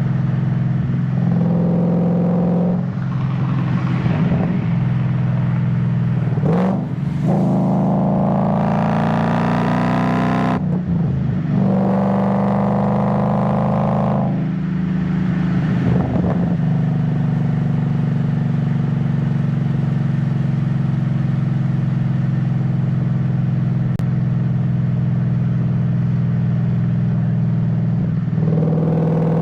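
Ford Mustang GT S197 V8 engine accelerating hard through the gears, its pitch rising in several pulls that break off sharply at each shift. It then runs at steady revs through the second half.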